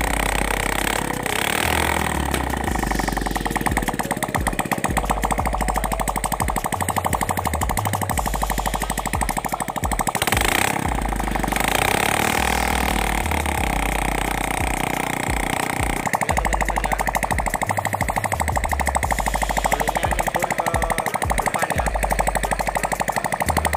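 Honda C-series four-stroke single-cylinder motorcycle engine running steadily on a test run after its blocked oil-pump passage was cleared, with a fast, even beat of firing pulses.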